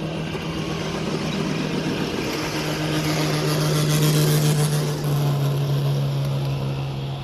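A motor's steady hum that swells, drops in pitch about five seconds in, and then fades.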